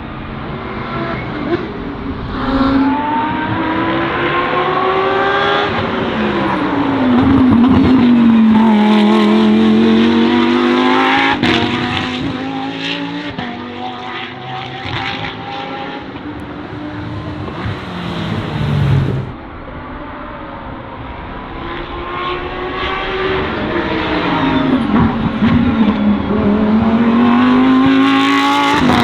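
Lamborghini Huracán Super Trofeo EVO2 race cars' V10 engines at racing revs, passing twice, the engine note rising and falling through gear changes as they go by.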